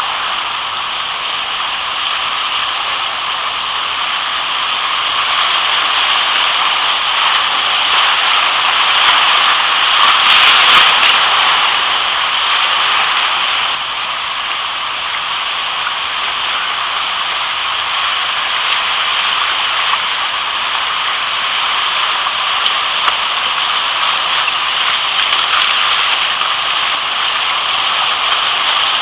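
River whitewater rushing steadily, a loud, even wash of water that swells briefly about ten seconds in.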